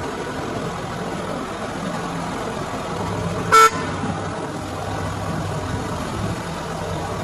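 Car engine idling steadily, with one short, loud horn toot a little past halfway.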